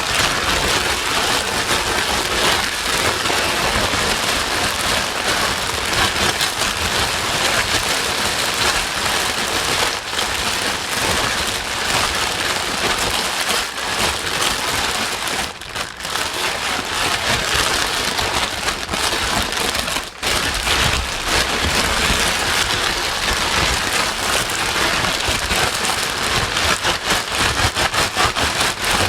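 Continuous white noise with a rain-like patter, played to calm a crying baby. It dips briefly about 16 and 20 seconds in.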